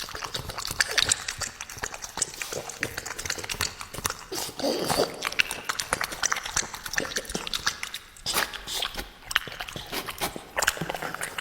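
Dog eating, with a dense run of crisp chewing and crunching clicks close to the microphone.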